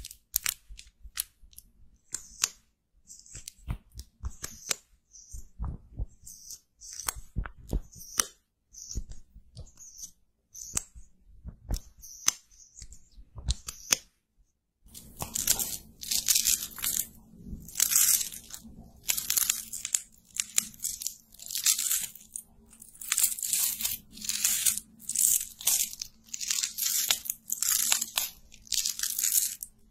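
Close-miked ASMR makeup handling: a run of short, crisp crackling and scratching sounds. It is sparse at first, then after a brief gap about halfway it becomes a denser run of hissy scratching strokes.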